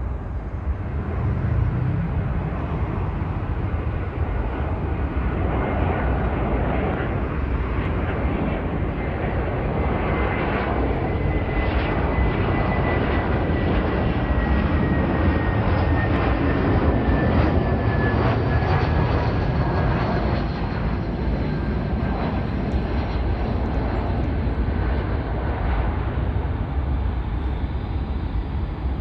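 Jet airliner engines, a steady jet roar with a thin turbine whine that slowly falls in pitch as the aircraft passes.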